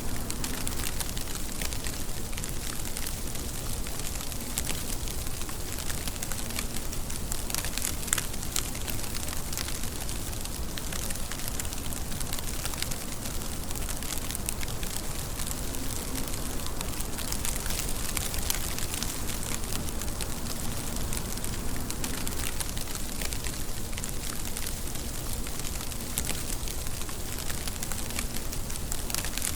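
Steady rain falling, an even hiss thick with sharp individual drop hits.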